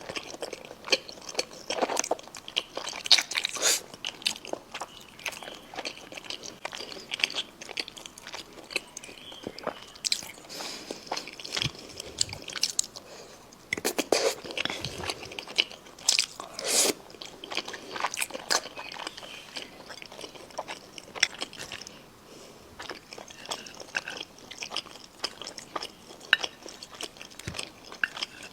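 Close-miked chewing and biting of food, a steady run of irregular crunchy clicks and smacks, with louder bursts of bites around the middle.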